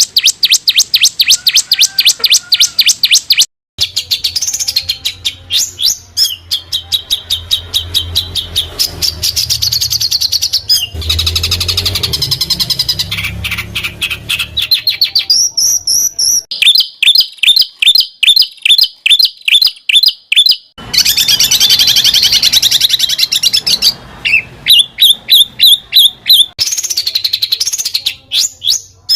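Songbird song as used for tutoring cage birds: loud, rapid trills and long runs of sharp repeated high notes, changing phrase every few seconds, with abrupt cuts between sections about 3.5 seconds in and again near 21 seconds.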